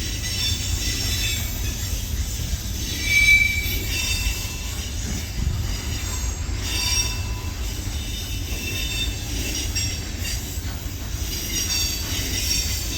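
Train passing with its wheels squealing on the rails: high, wavering squeals over a low rumble, the loudest squeal about three seconds in.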